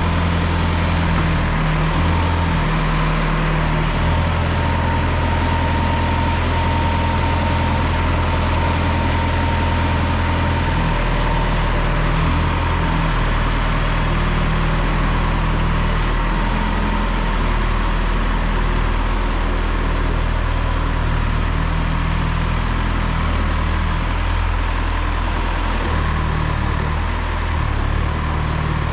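1974 John Deere 2030 tractor engine running steadily, with a thin steady whine over it for much of the first half.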